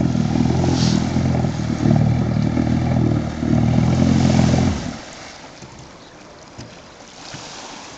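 A small boat's engine running steadily, then cutting out abruptly a little under five seconds in. Afterwards only faint water and wind noise remain. It is the stalling motor that an onlooker thinks cuts out because the fuel tank's air vent has not been opened.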